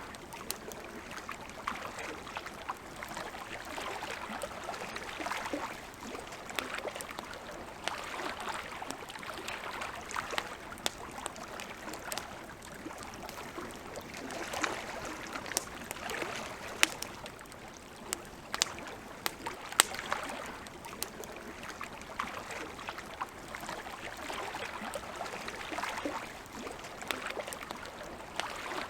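Wood campfire crackling, with sharp irregular pops over a soft wash of water lapping that swells and ebbs every few seconds.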